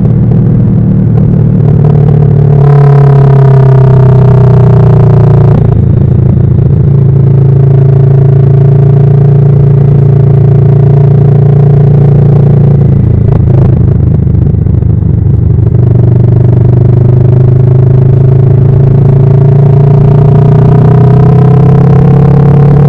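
Kawasaki Vulcan S parallel-twin motorcycle engine running under way. Its pitch jumps up a few seconds in and falls away, breaks off twice, then rises steadily through the last several seconds as the bike accelerates.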